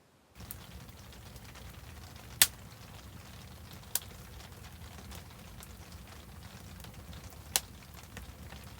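Wood fire burning with a steady low rush and constant fine crackling, with three sharp pops of snapping wood, the first the loudest.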